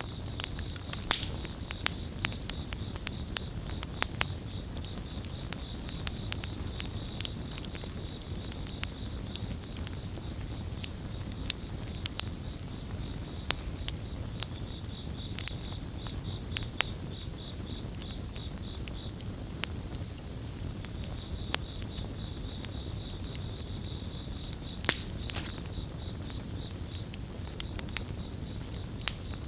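Campfire crackling and popping with sharp, irregular snaps over a steady low rumble of flames, the loudest pop coming near the end. Crickets chirp in a steady high-pitched pulsing trill, which breaks off briefly in the middle and then resumes.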